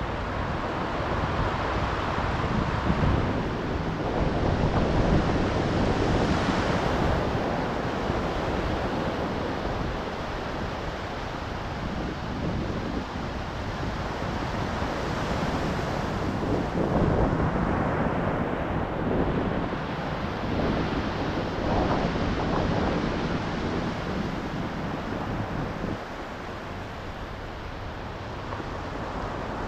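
Ocean waves breaking on a shore, the surf swelling and easing every few seconds, with wind rumbling on the microphone.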